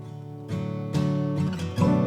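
Background music: an acoustic guitar strumming chords, with fresh strums about half a second, one second and nearly two seconds in.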